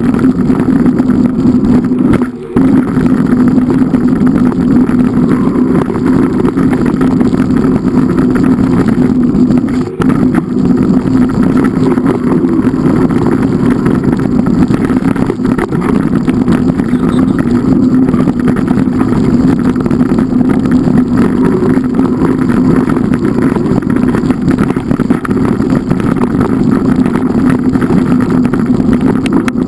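A loud, steady engine drone that dips briefly twice, about two and a half and ten seconds in.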